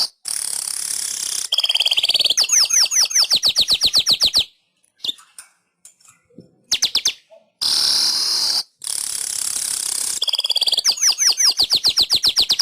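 Manyar weaver bird singing: a harsh, buzzy hiss lasting about two seconds, then a rapid run of sharp downward-slurred ticking notes, about ten a second. After a short pause the phrase repeats about seven seconds in, and its note run is still going at the end.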